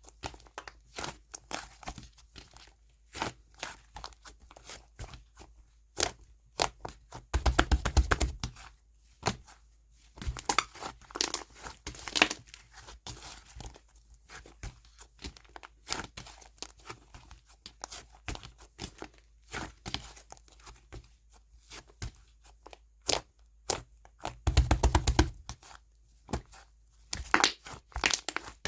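Brown clay-mixed slime (store-bought slime kneaded with clay) being pressed, poked and stretched by hand, giving many sharp clicking pops and crackles. Twice, about a third of the way in and near the end, there is a longer, louder stretch of crackling as the slime is worked harder.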